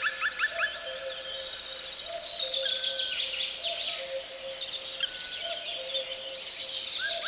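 Birds chirping and trilling, many quick calls, laid over soft background music whose short repeating figure of notes runs underneath.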